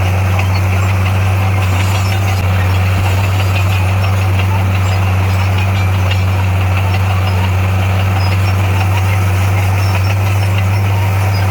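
Heavy construction machine's diesel engine running steadily with a deep, even drone and no change in speed.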